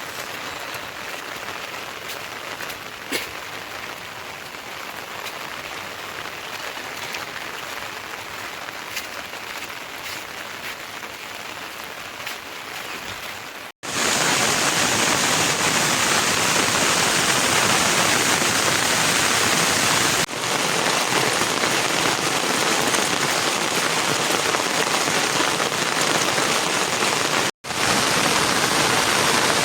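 Rain falling steadily: at first lighter, with separate drops ticking on surfaces, then from about halfway through a much louder, dense downpour hiss.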